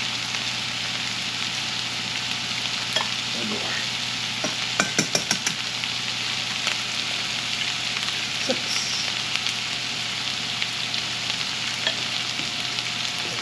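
Sausage, onions and green peppers sizzling steadily in a skillet on the stove. A few sharp clicks sound over it, with a quick run of about five near the middle.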